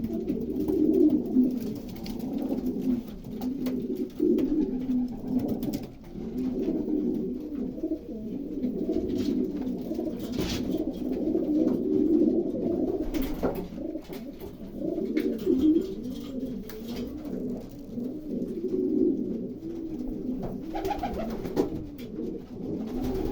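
Many domestic pigeons cooing in a loft, low wavering coos overlapping continuously, with a few brief sharp clicks.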